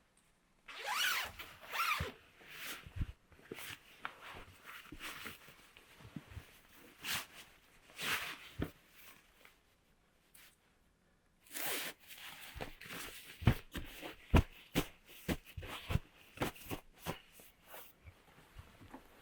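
A zipper pulled in several strokes, with rustling and short, sharp knocks in between; the two loudest knocks come in the second half.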